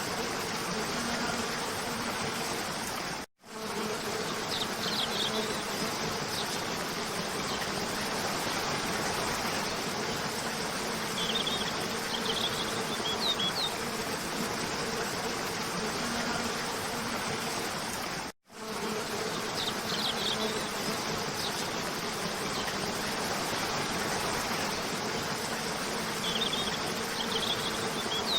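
Cascading waterfall rushing steadily under a faint low hum, with short high bird chirps a few times. The sound cuts out for a moment twice, about 15 seconds apart, where the looped recording restarts.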